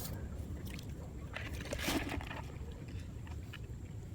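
Water sloshing, with a brief louder splash about two seconds in, over a steady low rumble.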